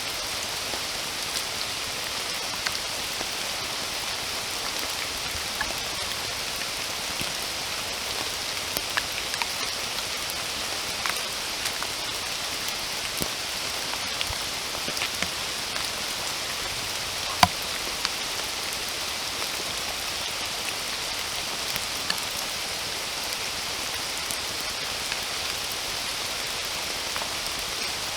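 Steady rain, an even hiss, with scattered sharp drops hitting nearby surfaces; the loudest drop lands a little past halfway.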